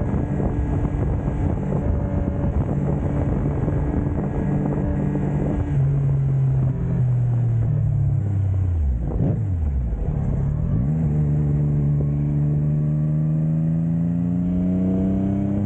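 Yamaha MT-09 Tracer's three-cylinder engine under way with wind rushing past. The revs fall off about six seconds in, dip and swing back up a few seconds later, then climb steadily as the bike accelerates.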